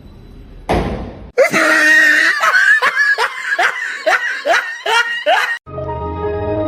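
A burst of laughter: about ten quick rising 'ha' sounds in a row, after a brief rush of noise, with music coming in near the end.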